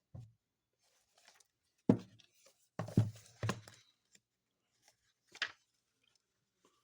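Handling noise from a picture book: three dull knocks between about two and three and a half seconds in, then a fainter crisp rustle like paper near the end.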